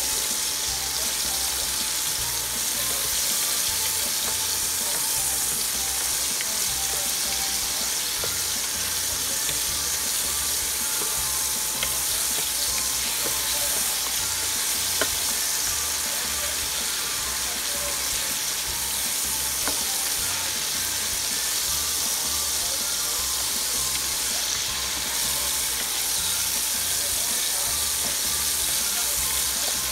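Onions, garlic, tomatoes and spices sizzling steadily as they sauté in hot oil in a nonstick pan, stirred now and then with a spatula that gives a few light scrapes and taps.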